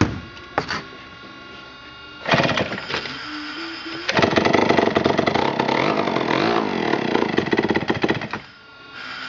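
1953 McCulloch Model 47 chainsaw's single-cylinder two-stroke engine being started on a shot of mixed gas: a couple of sharp strokes at first, it fires about two seconds in, then runs loudly for about four seconds, its pitch rising and falling, before it stops.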